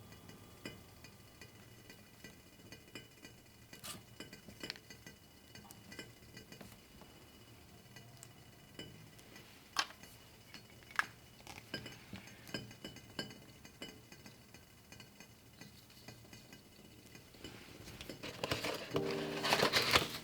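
Scattered light clinks and taps of dishes, glasses and cutlery, with a louder stretch of clattering handling noise near the end.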